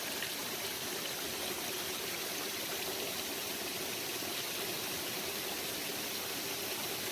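Steady rush of flowing water from a rainforest stream.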